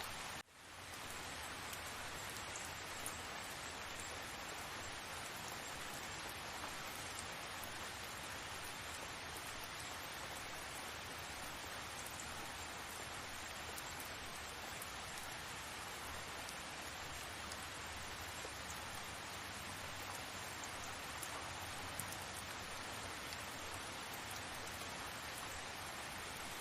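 Steady rain, an even hiss. It cuts out briefly about half a second in and fades back up.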